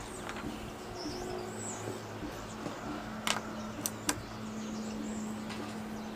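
Small birds chirping in short, high, curling calls over a steady low hum, with a few sharp clicks a little past the middle.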